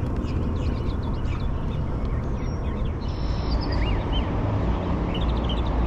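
Birds chirping in short calls, with a couple of rising-and-falling chirps about four seconds in and a small cluster near the end, over a steady low rumble.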